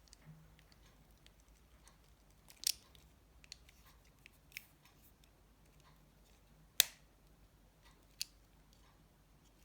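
Sparse small clicks and taps of tools and plastic Nokia 7373 phone parts being handled during reassembly, the loudest a single sharp click about seven seconds in, over a faint steady low hum.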